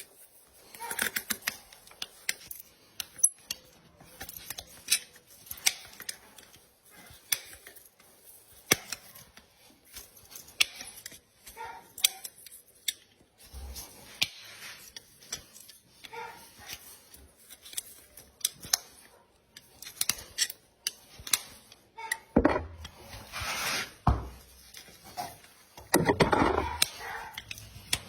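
Farrier tools working on a horse's hoof and shoe: a run of sharp clicks and snips, with two louder, longer scraping stretches about 22 and 26 seconds in.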